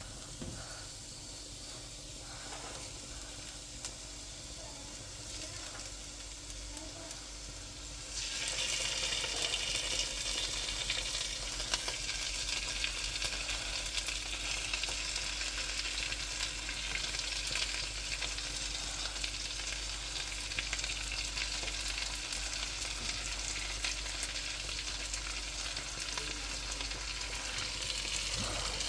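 Food frying and sizzling in a pan, with a steady hiss that turns louder and brighter about eight seconds in, and small scrapes of stirring.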